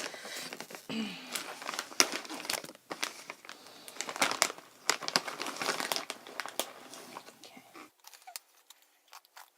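Plastic snack pouch crinkling and crackling as it is handled and torn open, dying away about eight seconds in.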